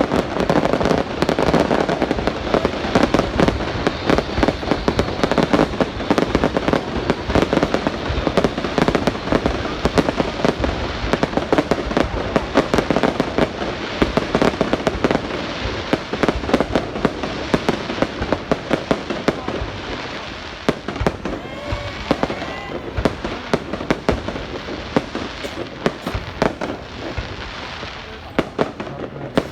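Fireworks going off in a dense, continuous barrage of bangs and crackles, easing off somewhat toward the end.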